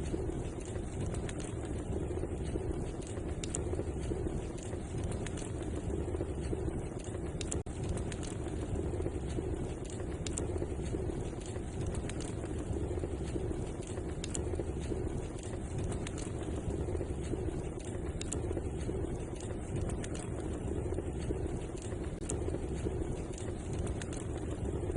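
Wood fire burning in a fireplace: a steady low rushing noise with scattered sharp crackles and pops.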